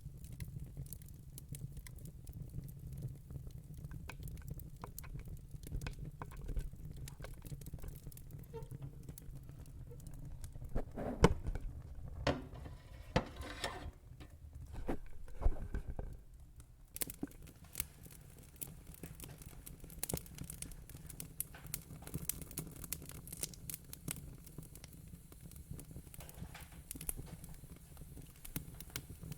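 Wood fire in a fire pit crackling, with irregular sharp pops and snaps over a low steady rumble. A busier spell of louder pops comes about halfway through.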